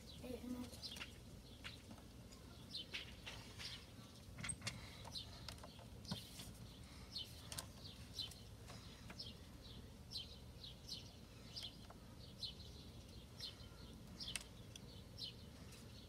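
Faint small birds chirping, short high chirps repeating every second or so.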